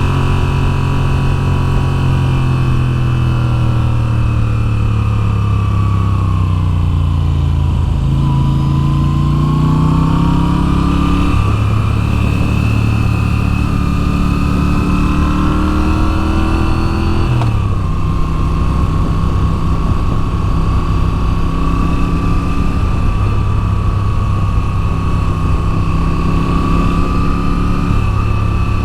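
2022 Moto Guzzi V7's air-cooled V-twin engine under way: its pitch falls for several seconds, climbs again, drops suddenly twice, then holds steady near the end.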